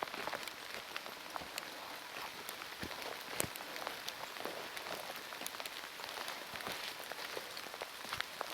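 Heavy rain falling steadily, with many sharp single drops striking close by among the constant hiss.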